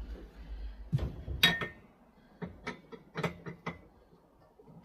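Irregular metal clicks and clunks as parts and tools are handled while the motorcycle engine is being worked out of its frame, the loudest knock about a second and a half in.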